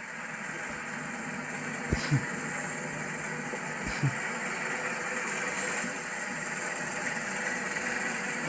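1984 Alfa Romeo Spider Veloce's 2.0-litre twin-cam four-cylinder idling steadily, with two short knocks about two and four seconds in.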